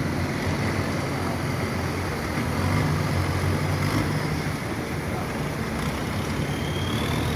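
Boat engine running steadily with a low hum over a wash of noise, and a faint high tone rising near the end.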